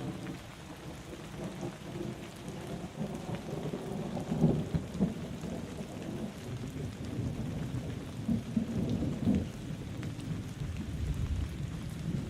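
Steady rain falling, a dense hiss of drops with low rumbling swells about four seconds in and again around nine seconds.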